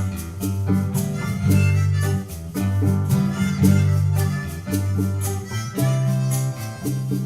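Live band playing an instrumental passage: guitar with a walking low line and steady hand percussion. A long held note comes in about six seconds in.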